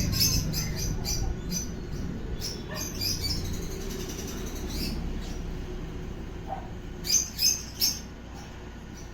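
Young lovebirds chirping in short high squeaky bursts, the begging calls of hand-fed chicks. Three louder, sharp chirps come near the end.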